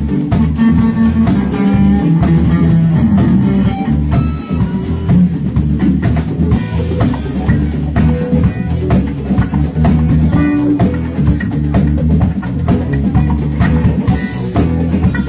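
Live rock band playing an instrumental passage: electric guitar lead lines over bass and a steady drum-kit beat.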